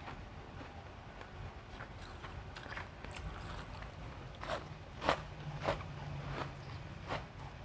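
Refrozen crushed ice being bitten and chewed close to the microphone: a few sharp, crackly crunches, clustering in the second half about one every half second.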